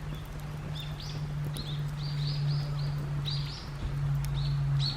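Small birds chirping: a run of short, high, arched notes, about two or three a second, over a steady low hum.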